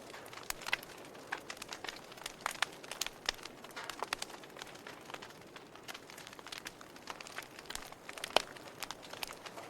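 Wood fire in a fireplace crackling, with irregular sharp snaps and pops over a soft hiss; one louder pop near the end.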